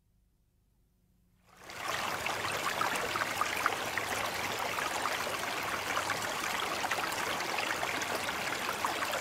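Dry ice bubbling and fizzing in a bowl of water, a steady seething water noise with many small pops that starts suddenly about a second and a half in, after silence.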